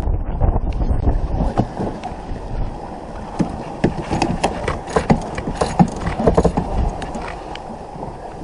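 Sounds aboard a small sailboat under sail: wind rumble on the microphone at first, then many irregular clicks and knocks.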